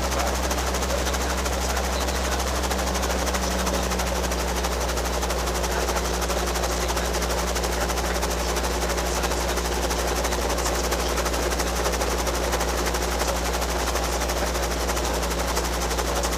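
Robinson R22 helicopter's carbureted piston engine and rotor running steadily, a fast, even chop over a constant low drone.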